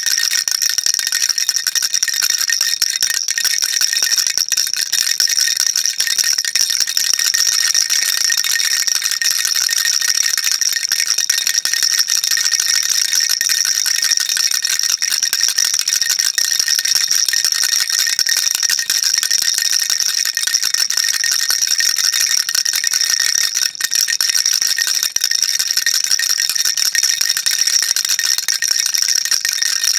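A baby rattle shaken continuously, a dense, steady, high-pitched rattling with no pauses.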